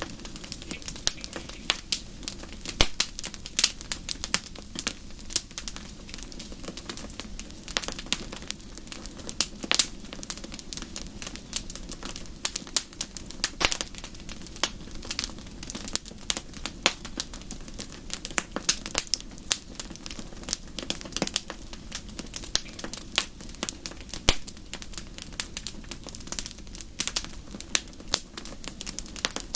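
Wood fire crackling steadily, with frequent irregular sharp pops and snaps over a low hiss.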